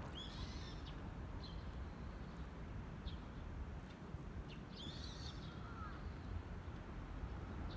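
Small birds chirping over a steady low rumble: two short twittering phrases, one just after the start and one about five seconds in, with a few single chirps between.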